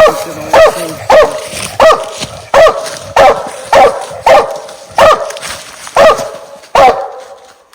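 Treeing walker coonhound barking up close: about eleven loud, evenly spaced barks, roughly two thirds of a second apart, which stop about a second before the end.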